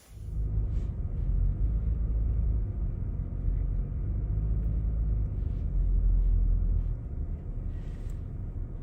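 Car on the move, a low steady road rumble that starts abruptly at the beginning.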